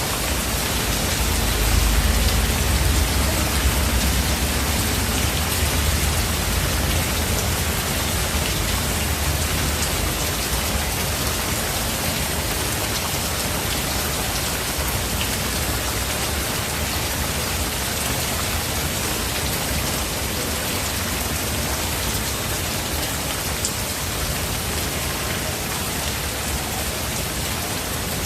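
Steady heavy rain falling, an even hiss of drops. A low rumble of thunder swells and fades in the first few seconds.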